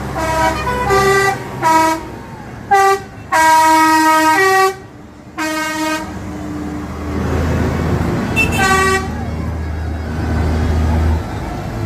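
Vehicle horn tooting a run of short blasts at several different pitches, like a tune, with one longer blast about three and a half seconds in. After that a low engine rumble goes on, with one more toot near nine seconds.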